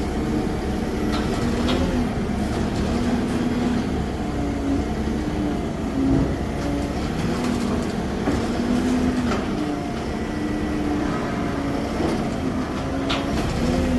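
An engine running, its pitch stepping up and down every second or two as the revs change, with a few sharp knocks.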